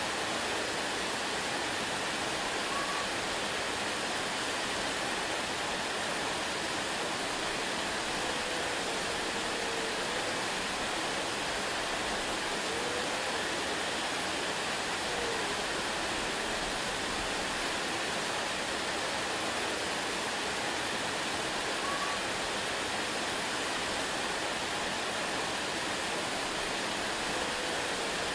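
Waterfall rushing in a steady, even roar of white water with no breaks. A few faint, short wavering tones rise above it now and then.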